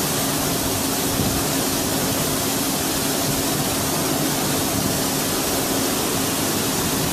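Mazak Integrex 70Y/3000 CNC lathe running under power: a steady hiss with a constant low hum beneath it.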